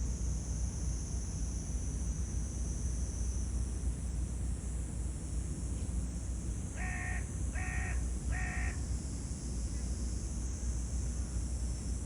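A crow cawing three times in quick succession, over a steady low rumble and a high hiss.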